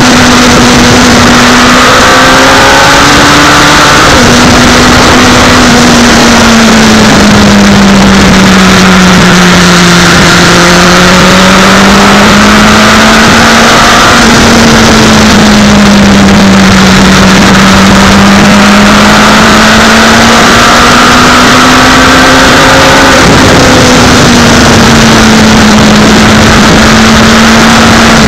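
Yamaha YZF1000R Thunderace's inline-four engine running under way at steady revs, its pitch slowly sagging and climbing with the throttle, with a sudden step in pitch about four seconds in and again mid-way and later. Heavy wind noise on the microphone, and the recording is very loud throughout.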